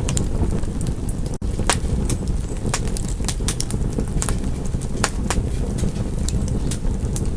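Wood fire crackling: irregular sharp pops and snaps over a steady low rumble of burning. The sound cuts out for an instant about a second and a half in.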